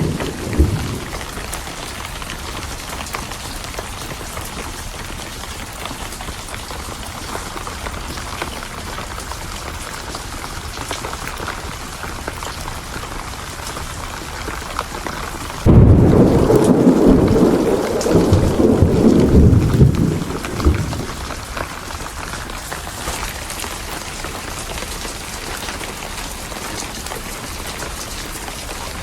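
Steady heavy rain with thunder: a rumble fades out in the first second, then about halfway through a loud thunderclap breaks in suddenly and rolls for about five seconds before dying away.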